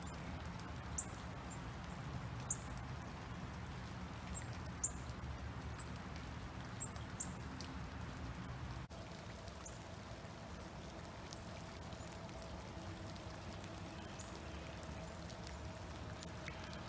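Outdoor ambience: a steady low rumble with scattered short, high chirps or ticks. It changes abruptly about nine seconds in to a slightly quieter bed with a faint steady tone.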